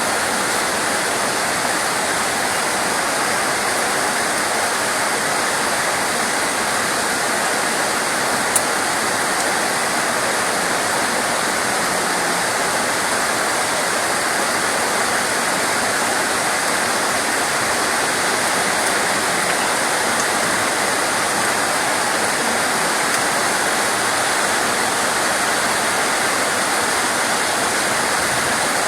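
Steady rain, an even hiss with no let-up, with one sharp tick about eight and a half seconds in.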